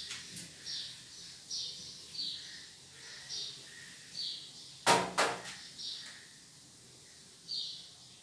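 A bird chirping over and over, short high chirps about twice a second, with a loud clattering knock about five seconds in.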